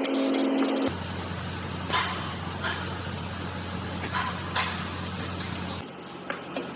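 A steady spraying hiss over a low machine hum, with a few faint clicks; the hiss starts abruptly about a second in and cuts off near the end.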